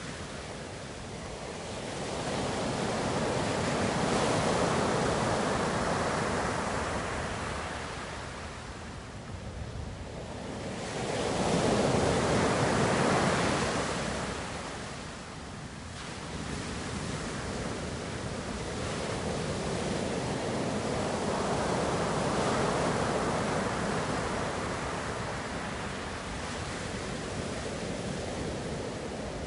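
Ocean surf: waves rolling in as slow swells of rushing noise, three surges in the span, the loudest about midway.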